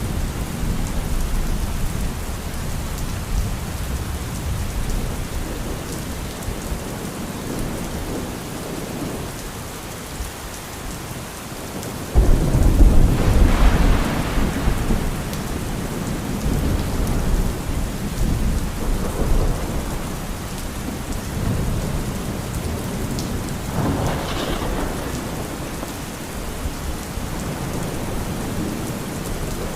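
Steady rain with low rumbling thunder. About twelve seconds in a loud thunderclap breaks in suddenly and rolls away over a few seconds, and a smaller peal follows near the end.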